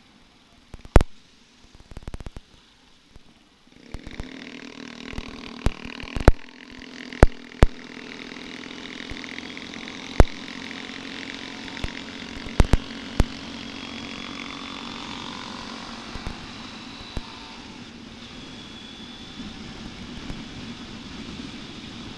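Honda TMX125 Alpha's single-cylinder four-stroke engine running while the bike is ridden, with road noise and sharp knocks now and then. It is fairly quiet for the first few seconds, and the steady engine sound comes in about four seconds in.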